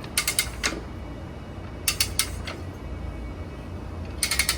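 Ratchet on a manual motorcycle tire-changing tool clicking in three short bursts of rapid clicks about two seconds apart, as the handle is worked to pull the tire bead off the rim.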